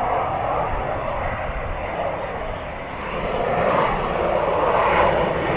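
Military jet aircraft flying past with the arresting hook lowered, a steady engine rush that dips a little midway and then grows louder toward the end as the jet approaches.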